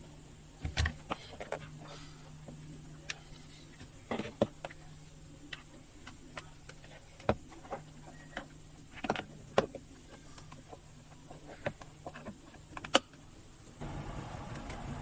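Irregular, scattered clicks and light knocks of hands handling small hard parts, over a faint steady low hum; a louder steady noise comes in near the end.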